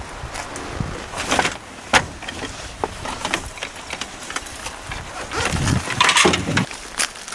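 Footsteps crunching over riverbed gravel and stones: irregular crunches and scrapes, a heavier cluster about six seconds in.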